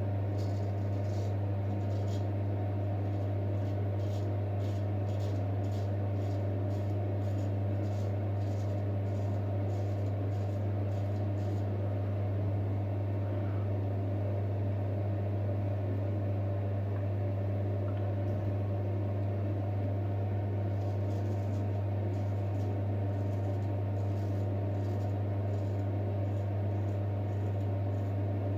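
A steady low mechanical hum throughout, with the light, rapid scraping strokes of a J. Nowill & Sons straight razor cutting through stubble in two runs, one in the first half and another near the end.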